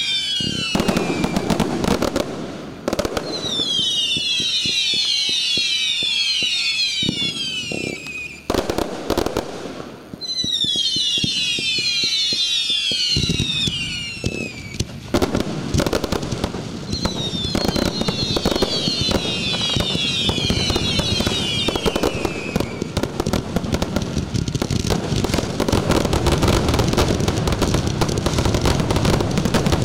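Fireworks display going off close by: rapid bangs and crackling throughout. Every few seconds there is a cluster of many whistles sliding down in pitch together. From about halfway the reports crowd into one continuous barrage.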